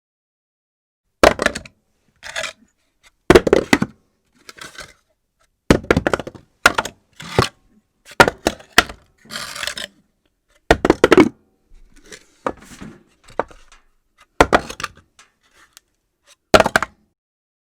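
Objects dropped onto a floor one after another at irregular intervals, a dozen or so hard thuds, some followed by smaller bounces and rattles.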